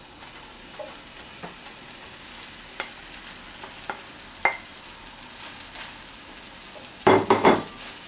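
Frying pan sizzling steadily as cooked rice is added to scrambled egg fried in butter, with a wooden spoon scraping and tapping as it pushes rice out of a bowl and stirs it in the pan. A quick run of louder spoon knocks comes near the end.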